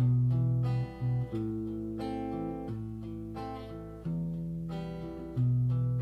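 Solo guitar playing the introduction: full chords struck and left to ring, a new chord every second or so, with a deep bass note under each.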